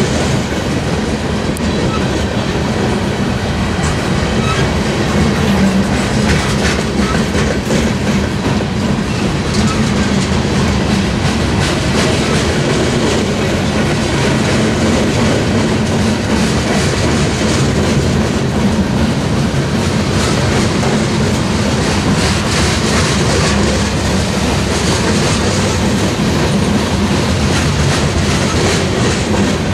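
Freight train's boxcars rolling past close by: a steady wheel-on-rail rumble, with frequent small clacks of the wheels running over the track.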